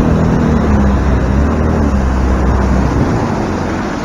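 A motorboat's engine running steadily under way, with its pitch wavering slightly.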